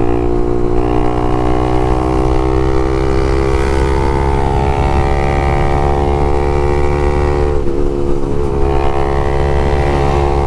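Honda CBX 250 Twister's single-cylinder four-stroke engine running through an open LeoVince exhaust while riding. The note rises slightly over the first few seconds, then holds steady, with a brief dip about eight seconds in.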